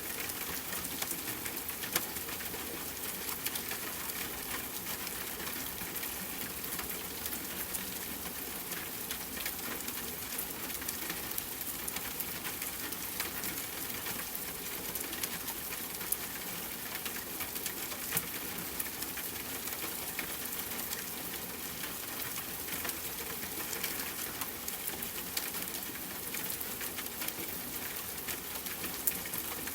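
Steady rainfall hissing, with a wood fire crackling over it in scattered sharp pops, a few of them louder.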